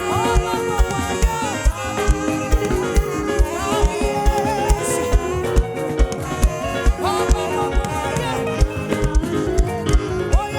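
Live gospel praise band music with a steady kick-drum beat under keyboard or guitar lines.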